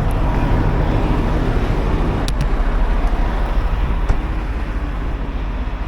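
Semi truck's diesel engine running as the truck pulls forward slowly, a steady low rumble, with two brief clicks partway through.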